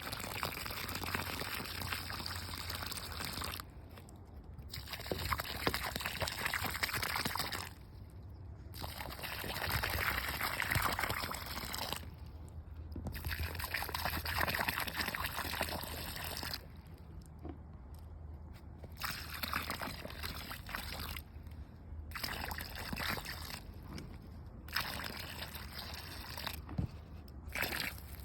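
Water being poured onto soil in spells of about three to four seconds, with short breaks between them, as newly planted raspberries are watered.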